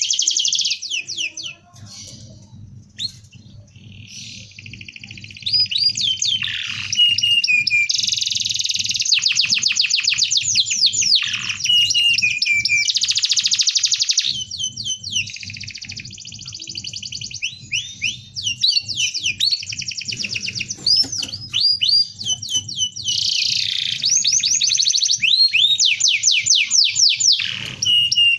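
Domestic canary singing a dense song of rolling trills: fast series of repeated sweeping notes, with a quieter stretch about two seconds in. A faint low hum runs underneath.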